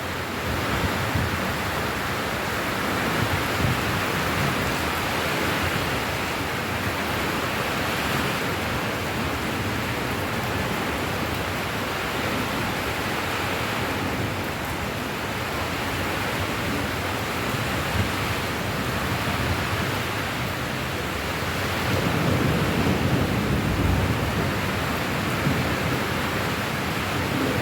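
Steady rain falling, an even hiss, with a low rumble swelling briefly about 22 seconds in.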